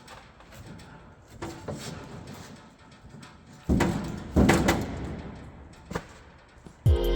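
A run of knocks and clatter, loudest about four to five seconds in, with a single sharp knock about six seconds in. Background music starts near the end.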